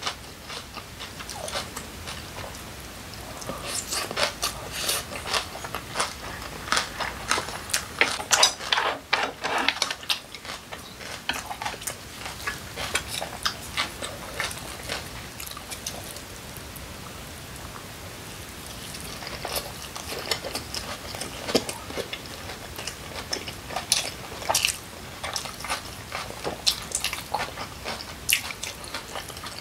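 Close-miked eating sounds: wet chewing and mouth clicks from mouthfuls of kimchi bibimbap and kimchi pancake, with chopsticks and a spoon tapping on glass bowls and a plate. The clicks come thick in the first dozen seconds, thin out in the middle and pick up again later.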